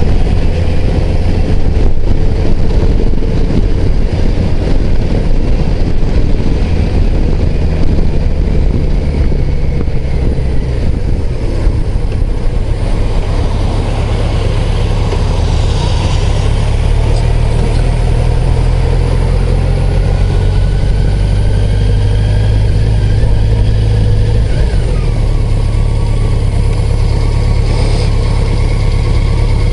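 BMW touring motorcycle engine running as it rides through city traffic, heard from the rider's seat with wind noise on the microphone. After about twelve seconds it eases off and settles to a steadier, quieter note as it slows.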